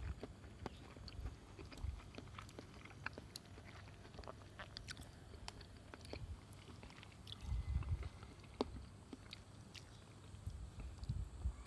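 Someone chewing food, faint mouth and crunching noises with scattered small clicks.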